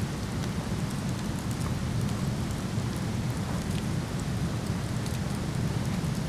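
Waterfall rushing steadily, a deep, even wash of water, with faint crackles from a wood campfire scattered through it.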